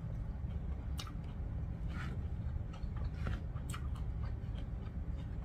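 A person chewing a mouthful of noodles, with a few short wet mouth clicks and smacks, over a steady low hum.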